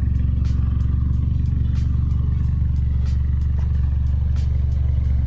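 A car engine running at a steady low drone, with scattered light clicks and ticks over it.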